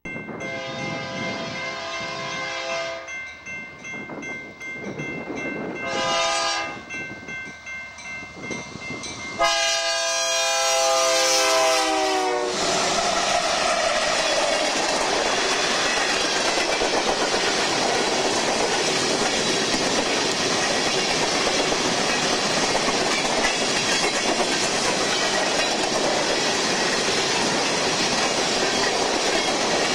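A BNSF Dash 9-44CW locomotive's Nathan K3LA chime air horn sounds for the grade crossing as it approaches: a long chord, a short blast about six seconds in, and a loud long blast about ten seconds in. The pitch of that last blast drops as the locomotive passes. After that, a long train of empty freight cars rolls by with steady, loud clickety-clack and rattling.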